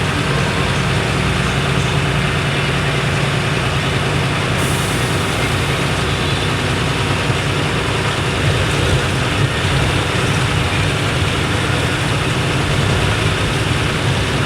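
Truck engine running steadily under way, with a constant drone and road noise.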